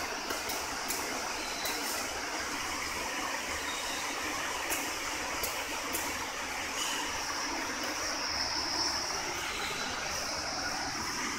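Industrial double-needle sewing machine running: a steady mechanical whir with scattered sharp clicks, more of them in the first few seconds.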